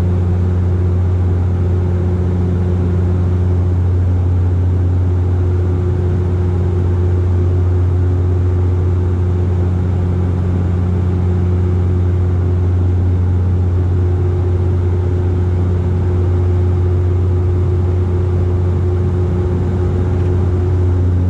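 Dash 8-400 (Q400) turboprop engines and propellers running steadily at high power, heard inside the passenger cabin as a loud, even, low drone with a strong propeller hum and a few fainter steady tones above it.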